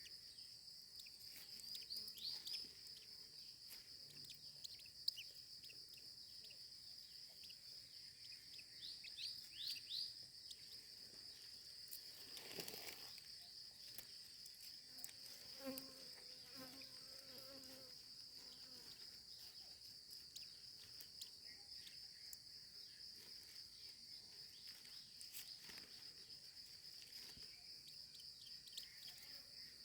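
Faint, steady high-pitched insect drone, like crickets. Small birds break in with short bursts of quick falling chirps a few times in the first ten seconds.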